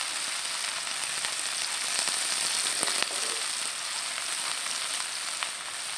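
Chilli paste with onion and garlic sizzling in oil in a frying pan: a steady hiss with a few small spattering pops, as the paste is fried down until dry.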